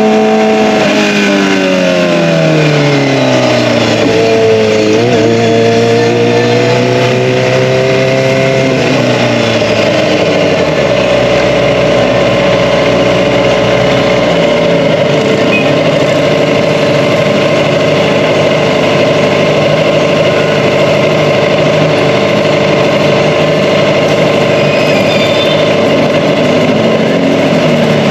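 Kawasaki ZX-25R 250 cc inline-four through an Akrapovic Evolution exhaust, coming down from high revs over the first few seconds. It holds briefly, drops again about ten seconds in, then runs at a steady engine speed.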